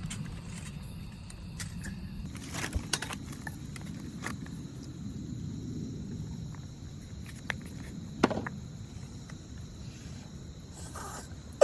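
A few light, scattered clicks and clinks, like chopsticks or a spoon against a cast-iron ramen pot, over a steady low outdoor rumble.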